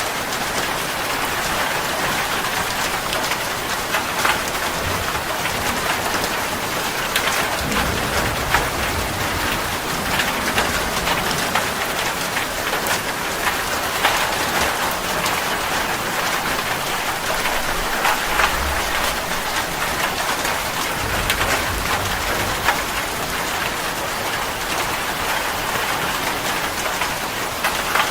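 Steady rain falling and pattering on a surface, with many individual drops ticking. A few low rumbles come and go, about a third of the way in and twice more past the middle.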